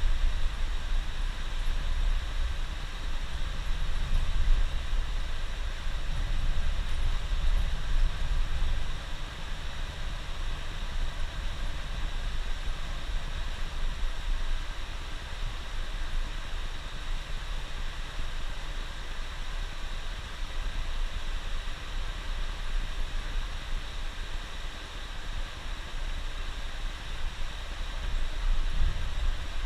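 Steady drone of a moving coach bus heard from inside: low engine and road rumble under a constant hiss, swelling slightly a few seconds in and again near the end.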